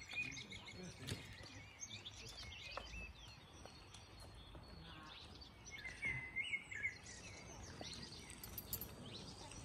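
Songbirds chirping and calling in the surrounding trees over quiet outdoor background noise, with one clearer call about six seconds in.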